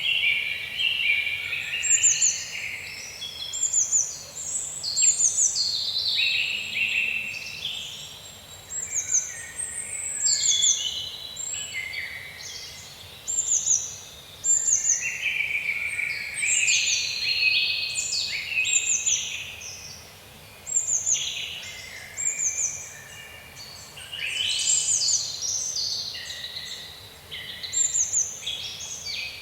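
A chorus of several birds calling at once. One bird repeats a short, high note that falls in pitch, roughly once a second, over a busier jumble of lower chirps and trills.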